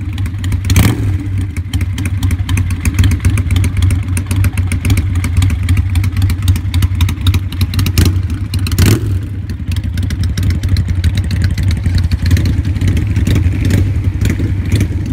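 Motorcycle engine idling close to the microphone, steady and loud, with rapid even firing pulses.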